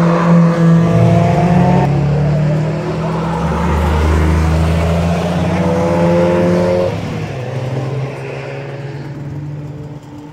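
Car engines accelerating hard on a race track, the engine note rising in pitch and cutting off sharply twice, about two seconds in and again near seven seconds. After that a quieter, steadier engine sound remains.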